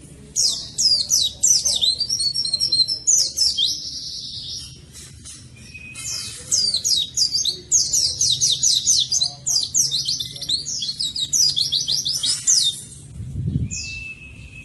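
White-eye (pleci) singing a fast, high-pitched warbling song of rapid downward-sweeping notes, in two long runs with a short pause between them.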